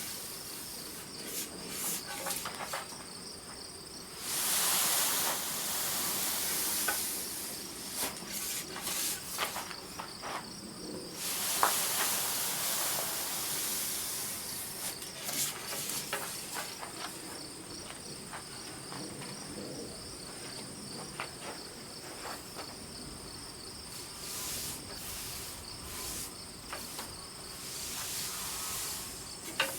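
Insects trilling steadily, with two spells of loud hiss and a few scattered clicks and scrapes.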